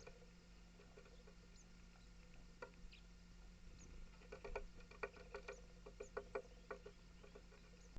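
Faint, irregular ticks and taps of a small animal feeding at a bird table, thickening into a quick cluster about halfway through, over a steady low hum.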